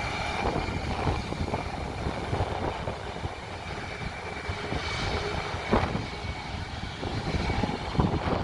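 Jet engines of Boeing 737s idling in a taxi queue: a steady rumble with a thin, high whine over it.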